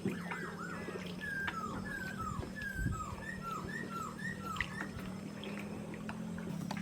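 A bird calling over and over: a quick series of short whistled notes, most sliding downward, over a steady low hum.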